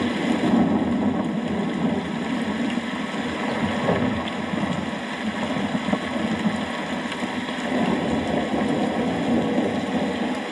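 Steady heavy rain with a low, continuous rumble of thunder underneath.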